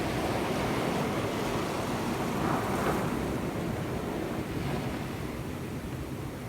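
Sea waves washing in, with wind buffeting the microphone; one wash swells up about halfway through, then it all eases off.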